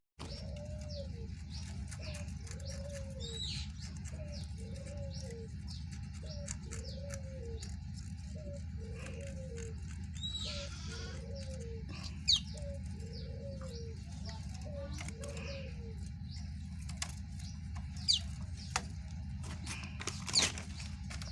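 Caged birds calling. A low, arched call repeats about once a second for most of the time and then stops, while higher chirps and whistles from small songbirds come and go, with a few sharp loud chirps near the end. A steady low rumble runs underneath.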